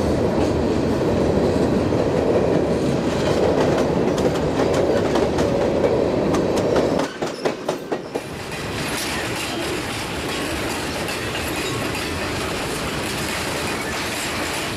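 Freight train passing at speed: a steady rumble with wheels clattering over the rail joints. About seven seconds in the sound changes abruptly, with a few sharp knocks, and then runs on quieter and thinner.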